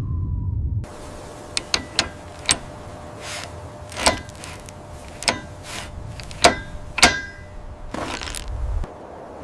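A low rumble that cuts off about a second in, then a dozen or so sharp metallic clinks and knocks at irregular intervals, some ringing briefly, as metal parts and tools are handled.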